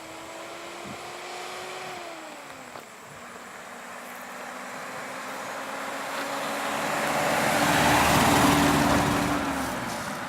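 A motor vehicle drives past, getting louder to a peak about eight seconds in and then fading, its engine note dropping in pitch as it goes by. Early on, another engine note falls in pitch about two seconds in as a vehicle moves away.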